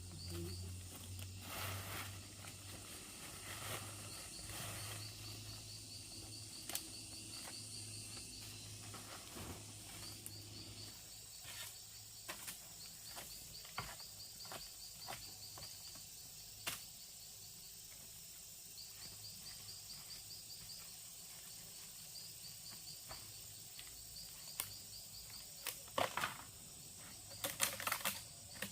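Insects chirping in repeated short trills over a steady high insect drone, with scattered light clicks and knocks and a few louder clacks near the end. A low hum sits under the first ten seconds or so.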